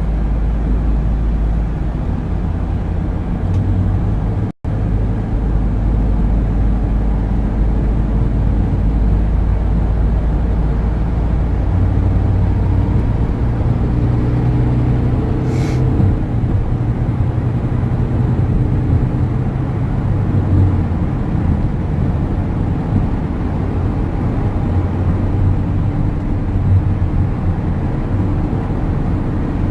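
Steady low rumble of road and engine noise from a car driving at highway speed, heard from inside the cabin. The sound cuts out completely for an instant about four and a half seconds in.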